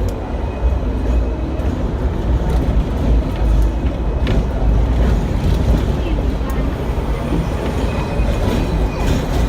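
Hong Kong double-decker electric tram running along its rails, heard from on board: a steady low rumble with occasional clicks and rattles.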